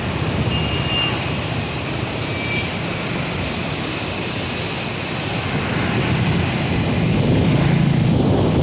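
Steady rushing roar of river water pouring out through a barrage, growing a little louder in the last couple of seconds.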